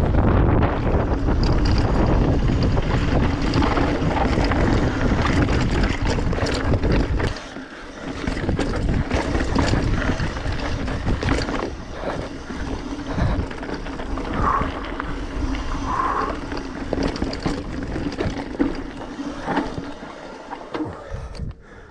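Wind buffeting the microphone of a mountain bike riding down a rough trail, with frequent clicks and knocks from the bike over the ground. The heavy wind rumble eases about seven seconds in.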